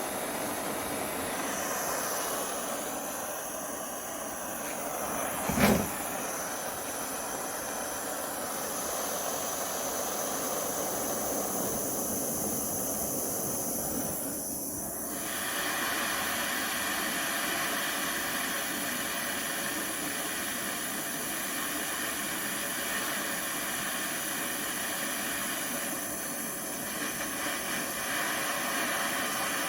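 Propane torch burning with a steady hiss as it heats the steel steering rod for straightening. A single sharp knock sounds about six seconds in.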